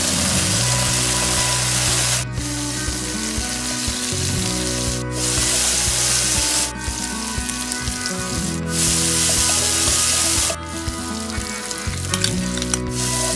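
Shallots, garlic and chilli paste sizzling in hot oil in a wok while a spatula stirs them. The sizzle cuts off and comes back abruptly several times.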